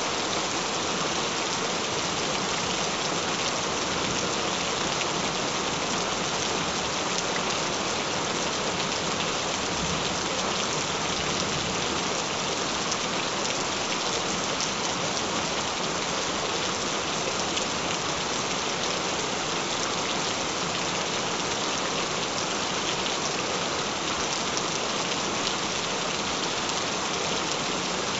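Gentle rain falling steadily: an even, unbroken hiss of drops on a surface.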